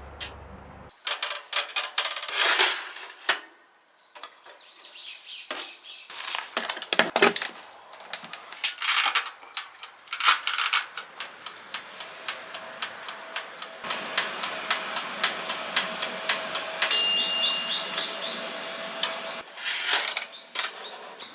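Breakfast being prepared: a string of clicks and knocks from kitchen utensils and dishes, with a stretch of fast, even tapping about halfway through.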